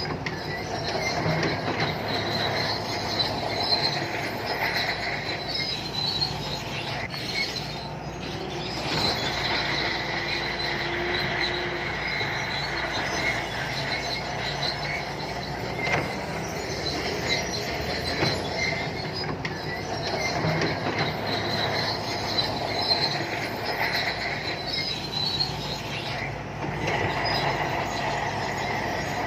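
SANTUI crawler bulldozer working: the diesel engine runs steadily under load while the steel tracks squeal and clank, the high squeal swelling and fading as the machine moves.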